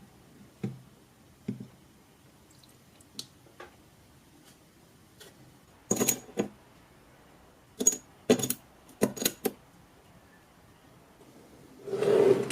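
Light clicks and clatters of small parts and tools being handled on a workbench, coming in quick clusters around the middle, then a brief noisy burst of about half a second near the end.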